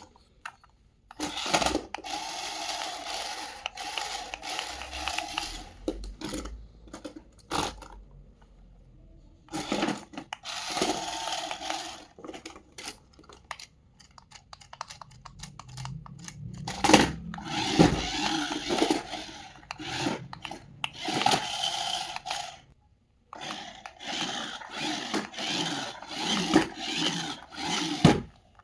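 Repeated bursts of scraping and rattling with clicks, each lasting a few seconds, separated by short pauses.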